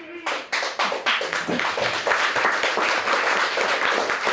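Audience applause from a small crowd: a few separate claps that quickly build into steady clapping.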